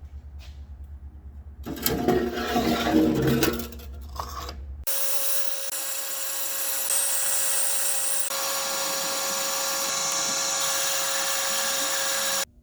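Power tool working metal: a short, rough, loud burst about two seconds in, then from about five seconds a steady, high-pitched run with a strong fixed whine that cuts off abruptly near the end.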